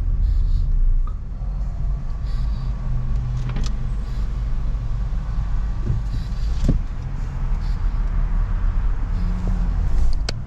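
Car cabin noise while driving: a steady low rumble of engine and road, with a couple of short clicks, one about three and a half seconds in and one near the end.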